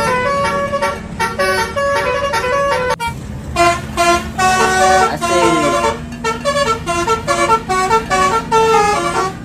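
Multi-tone telolet bus horn playing a quick melody of short stepped notes, pausing briefly a third of the way in, over a steady low engine hum.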